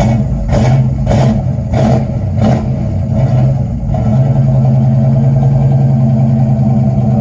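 Box Chevy's engine running, with five short surges about every 0.6 s in the first few seconds, then settling into a steady idle. It is freshly started and not yet dialed in, and it sounds like it is running short of gas.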